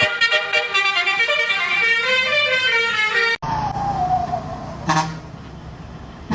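Vehicle horn sounding a tune of several pitched notes, then an abrupt cut to a road vehicle running with a low steady rumble, a short falling tone and a single click.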